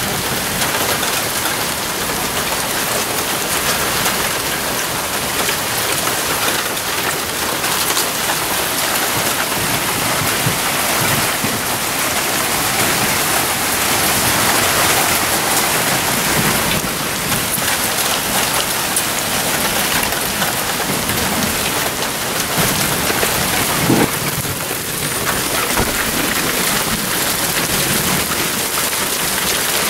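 Heavy rain with big raindrops falling steadily, a continuous dense hiss of drops hitting the ground and nearby surfaces. A single brief knock stands out about 24 seconds in.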